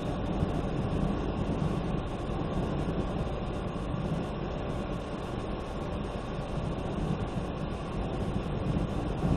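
Hail and heavy rain pelting a car's roof and windshield in a dense, unbroken drumming, heard from inside the moving car along with road noise.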